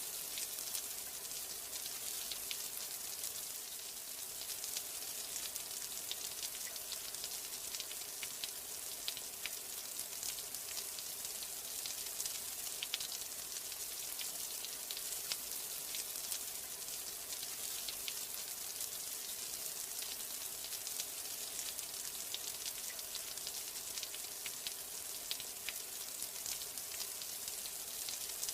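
Steady rain: an even hiss thick with many small drop ticks, unchanging throughout.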